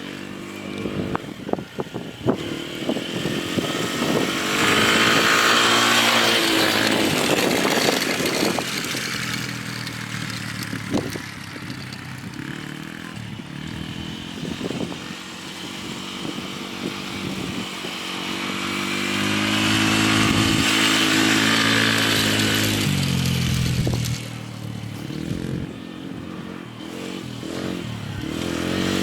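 1990 Polaris quad (ATV) engine running and revving up and down. It twice climbs to high revs and holds them for several seconds, with a few sharp knocks near the start.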